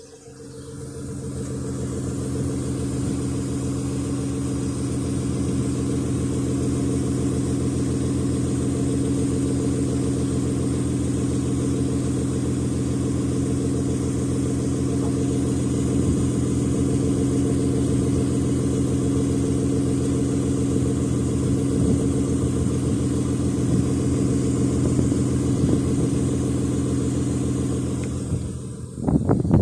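Nissan Skyline R33's RB20E 2.0-litre straight-six idling at a steady, even note. It comes up in level over the first couple of seconds and drops away about a second before the end.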